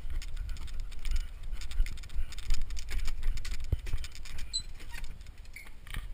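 Wind buffeting the microphone of a GoPro in a waterproof case, an uneven low rumble, with scattered sharp taps and clicks.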